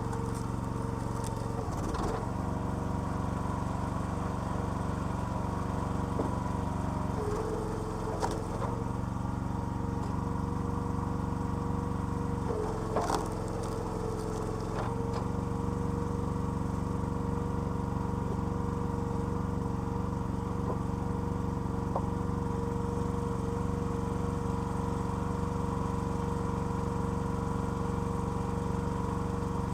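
Small petrol engine of a homemade hydraulic log splitter running steadily. Its note shifts twice for a second or two, and a few sharp cracks come through, the clearest about thirteen seconds in.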